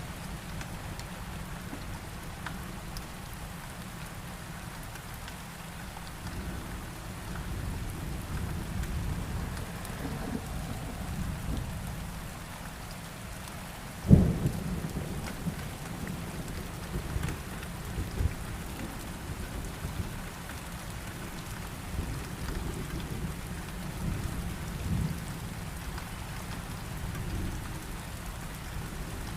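Heavy rain falling steadily through a thunderstorm, with low rolling thunder. A sharp, loud thunderclap cracks about halfway through, followed by fainter rumbles.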